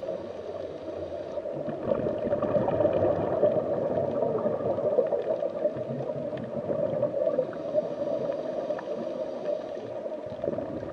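Underwater ambience sound bed: a steady, watery rumble with gurgling.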